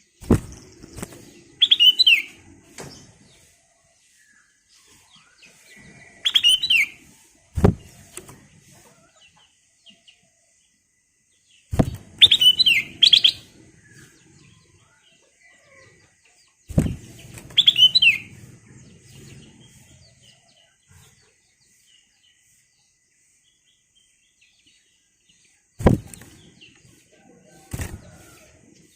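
Black-crested bulbul (kutilang emas) singing four short, quick whistled phrases spaced several seconds apart, with sharp knocks in between.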